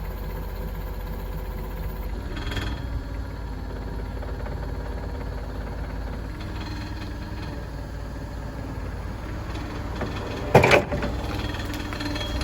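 Toyota 7FGF25 forklift's gas engine idling steadily, with a brief loud clank near the end.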